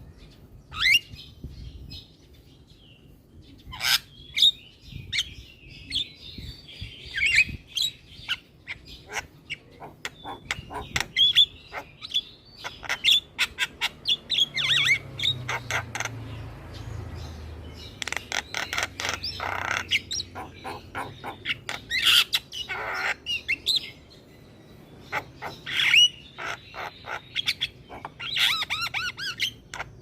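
Javan myna singing in full, busy song: rapid runs of sharp clicks, short whistles and harsh squawky notes in bursts, with brief pauses between them.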